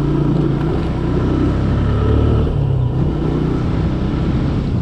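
TVS Apache RTR 160's single-cylinder four-stroke engine running steadily on the move, its pitch dipping and rising slightly about two to three seconds in.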